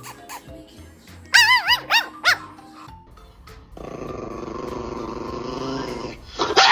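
Dog vocalizing: three short, loud yelps that rise and fall in pitch about a second and a half in, then a rough, steady growl lasting about two and a half seconds, then another loud yelp near the end. Faint background music runs underneath.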